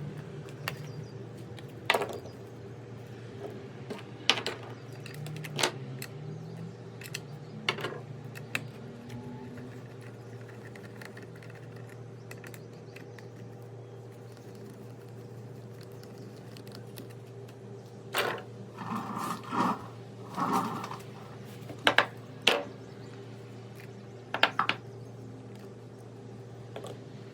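Scattered clicks, knocks and clinks of hand tools and small plastic and metal parts being handled while a Stihl FS 55 R string trimmer is taken apart to reach its carburetor. They come in short groups, busiest a little after the middle, over a steady low hum.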